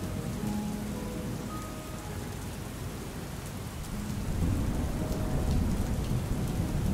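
Steady rain falling, with a low rumble of thunder swelling about four seconds in.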